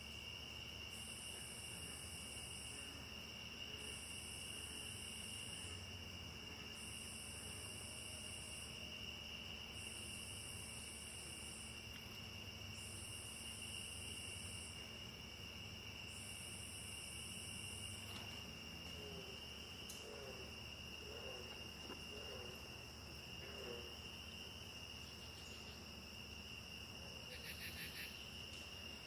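Rainforest insect chorus: a steady high-pitched trilling, with a still higher insect call pulsing on for about two seconds at a time every three seconds until it stops about two-thirds of the way through. After that come a few soft low chirps and, near the end, a brief rapid pulsed call.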